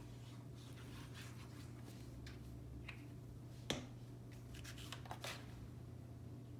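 Paper and cardstock being handled: faint rustling and scraping, with one sharp tap about three and a half seconds in and a couple of softer ones a little later, over a steady low hum.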